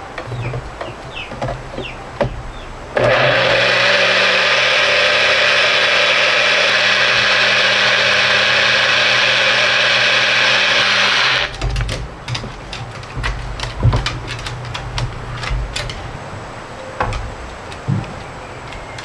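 An electric blender runs steadily for about eight seconds, switched on and off abruptly, with a steady motor hum under the noise of the blades. Scattered kitchen clicks and knocks come before and after it.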